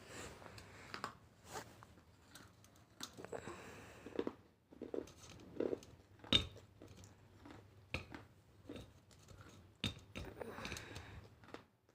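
Eating sounds: irregular chewing and mouth smacks with scattered small clicks and knocks.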